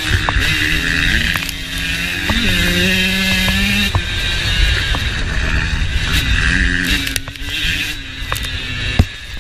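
KTM motocross dirt bike engine revving up and down as it is ridden, with sharp knocks from the bike over rough ground. The engine eases off about seven seconds in.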